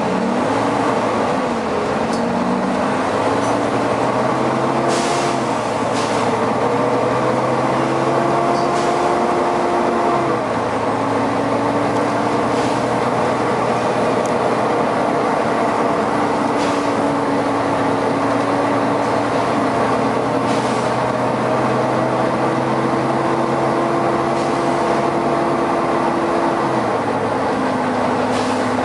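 Volvo B9TL bus's six-cylinder diesel running together with its very loud engine cooling fan: a steady drone whose pitch glides upward over the first few seconds, then holds, with step changes about ten seconds in and near the end. A few brief hisses break through now and then.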